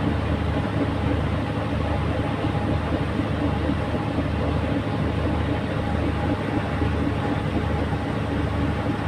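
A boat engine running steadily with a constant low, droning hum.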